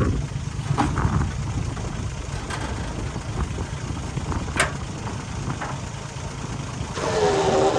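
Old haystacker's engine running steadily with a low rumble, with a few sharp clicks or knocks. Near the end it gets louder, with a rising pitched note as it takes on more work.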